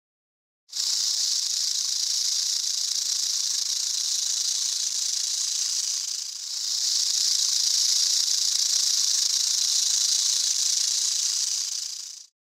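Eastern diamondback rattlesnake's tail rattle buzzing without a break, a steady high buzz that dips briefly about halfway through and stops abruptly near the end. This is the coiled snake's defensive warning.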